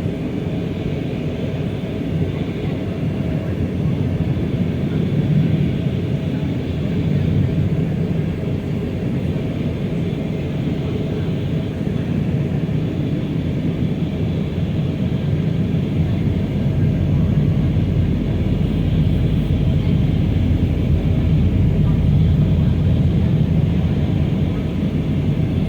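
Steady cabin noise inside an Airbus A319: a continuous rumble of engines and airflow, with the deepest part growing louder about two-thirds of the way through.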